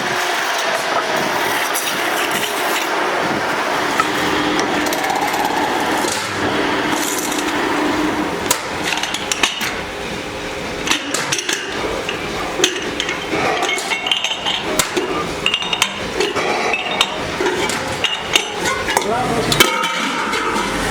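Irregular sharp metal taps and knocks, like hand hammering, over a steady workshop din, with voices in the background.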